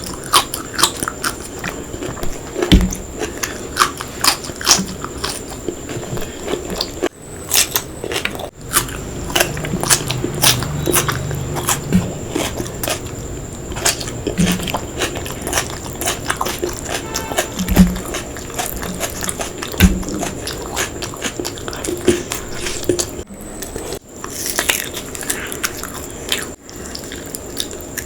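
Close-miked eating: steady chewing and biting with many small wet mouth clicks and some crunchy bites, plus a few low thumps.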